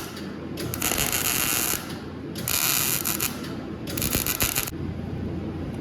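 Stick (arc) welder striking and running three short welds, the arc crackling and hissing in three bursts of about a second each. The machine is set low for the thick rod, so it is working but not very hot.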